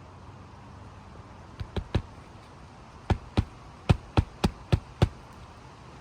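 Hammer driving roofing nails into asphalt shingles: three lighter taps in quick succession, then a run of seven sharp strikes about a third of a second apart.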